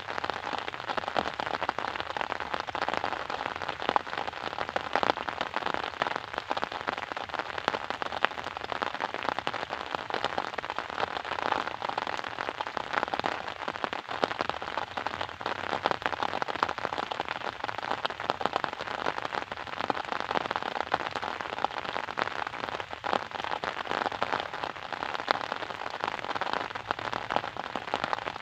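Steady rain falling, a dense even hiss of many small drop hits on a surface.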